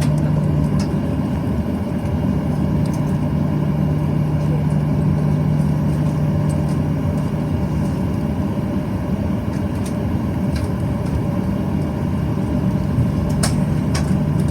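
Steady cabin drone of a Boeing 737-800's CFM56-7B jet engines at low, unchanging thrust, with a strong low hum and no spool-up. A few faint clicks come near the end.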